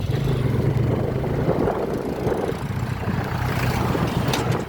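Motorcycle engine running steadily while riding, a low hum that wavers slightly in pitch.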